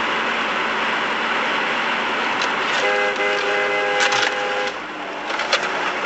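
Steady road and engine noise of a car driving, with a car horn sounding for about two seconds from about three seconds in. A few sharp knocks come near the end.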